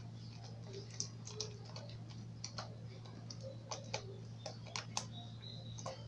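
Slime being kneaded and squeezed by hand, giving irregular wet clicks and pops, with a steady low hum underneath.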